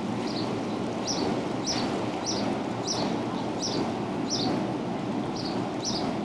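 A bird repeating a short, high, falling chirp about every half second, with an occasional skipped beat, over steady outdoor background noise.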